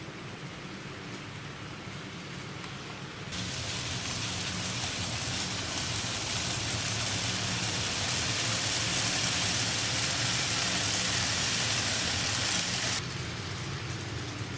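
N-gauge model train running on the layout's track: a steady rolling hiss over a low hum. It jumps sharply louder about three seconds in and drops back suddenly near the end.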